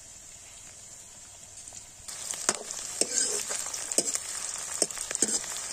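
Sliced onions and green chillies sizzling in hot oil in a metal wok. About two seconds in, a steel ladle starts stirring, scraping and knocking against the wok several times over the sizzle.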